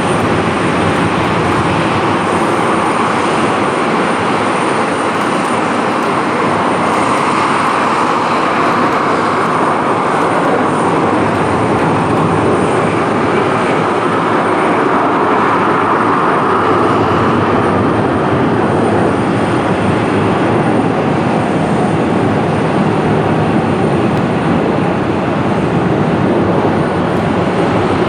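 Jet airliner engines running loud and steady, an even spread of engine noise with a faint high whine above it.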